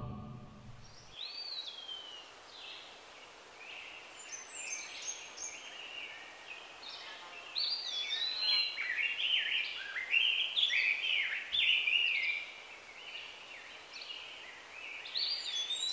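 Birds singing: a string of short whistled phrases sliding up and down, busiest in the middle and again near the end, over a faint outdoor hiss.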